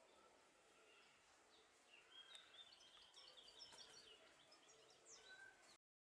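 Near silence with faint high-pitched bird chirps, a quick run of short notes from about two seconds in, over a low background hiss; the sound cuts off abruptly just before the end.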